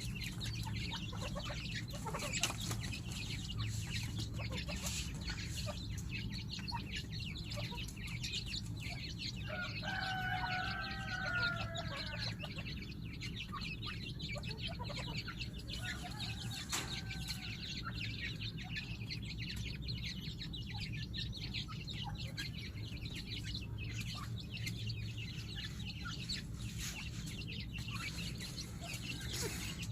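Grey francolins clucking softly, with scattered light clicks and one clear wavering call about ten seconds in, over a steady low hum.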